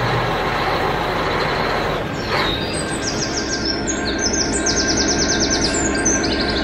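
A vehicle engine running steadily, with a short falling tone a little over two seconds in. Birds chirp in quick high runs from about halfway through.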